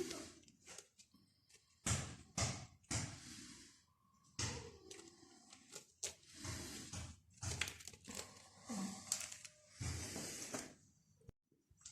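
Scattered light knocks, clicks and scraping from hand work with tools and parts, irregular and short.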